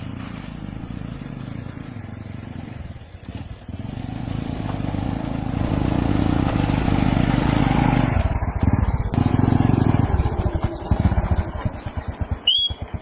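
A small engine running steadily, getting louder through the middle, then slowing into separate putts near the end. A short high chirp sounds just before the end.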